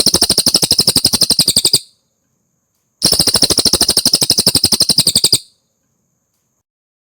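Cililin song: two rapid chattering trills, each about two seconds long, at about ten sharp notes a second, with a short pause between them.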